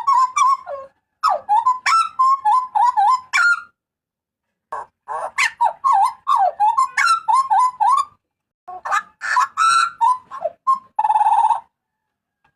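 Butcherbird (jagal papua) giving loud, harsh calls in quick strings of sharp notes with upward flicks, in four phrases with short pauses between, the last ending in a rasping buzzy note.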